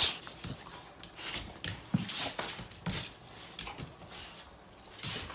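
Pit bull making short breathy huffs and scuffs, irregularly spaced about half a second to a second apart.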